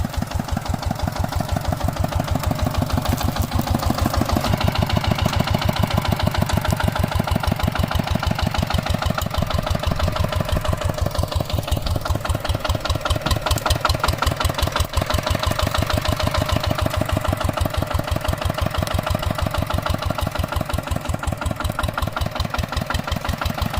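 Hand tractor engine running steadily with an even, rapid chugging beat, about eight beats a second, a little louder from about four seconds in.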